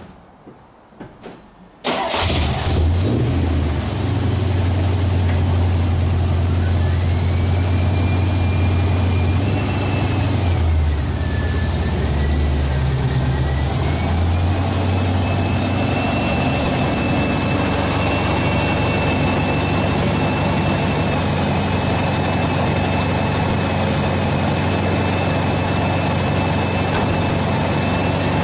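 1986 Chevy K-10 pickup engine starting about two seconds in, then idling steadily. A high whine over the idle climbs, dips briefly, then holds steady.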